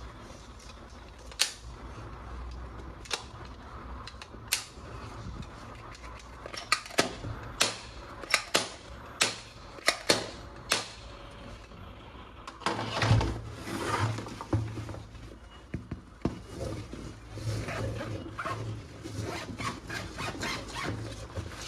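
Plastic toy guns and parts being handled: a run of sharp, separate clicks and snaps, then from about halfway on busier rubbing and rustling with more clicks.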